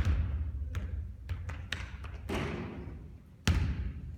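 Basketball bouncing on a court floor: a heavy thud at the start, a run of quicker, lighter bounces about a second in, and another heavy thud near the end.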